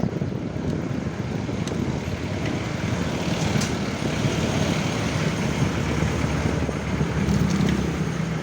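Steady street traffic noise heard while riding along a city road, with passing vehicles as a continuous low rumble. A low engine hum comes in about seven seconds in.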